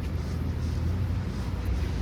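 City street ambience in the snow: a steady low rumble of traffic, with soft footsteps on snowy pavement about twice a second.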